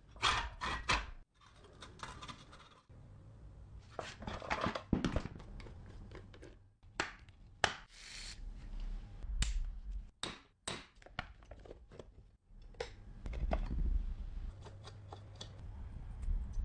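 Workshop handling sounds of metal parts of an old electric fan: a series of sharp clicks and knocks with some scraping, cut together in short pieces with abrupt breaks between them.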